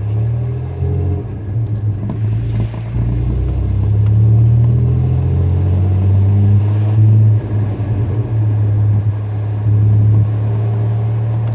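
Pickup truck driving, a steady low engine and road rumble that grows louder about four seconds in.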